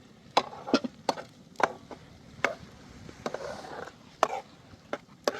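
Chopping on wood: about eight sharp strikes at an uneven pace, with a short scraping sound a little past the middle.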